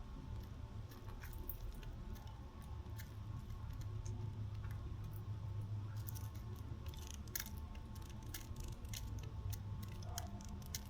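Irregular sharp clicks and taps, birds pecking and cracking seed at a feeder, over a steady low hum.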